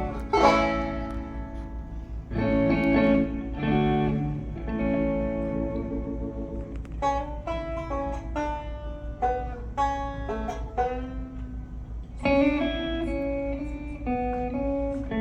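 Guitar playing an instrumental introduction: plucked notes and strummed chords in a country style.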